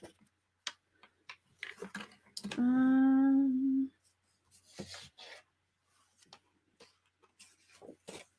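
A woman hums a single steady note for just over a second, about two and a half seconds in. Around it are scattered light clicks and rustles of paper and craft supplies being handled.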